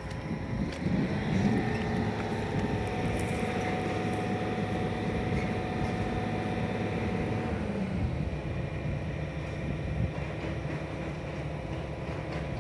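Diesel engine of heavy machinery running, revving up about a second in, holding steady, then dropping back near eight seconds.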